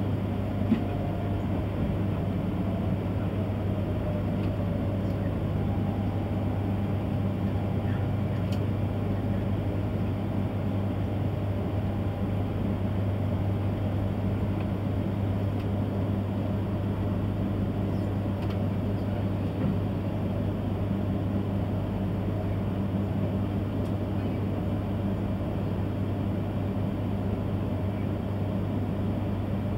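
Steady low hum inside the passenger cabin of an E3 series Shinkansen train running slowly and drawing to a stop, with a faint falling whine in the first few seconds and a single click about a second in.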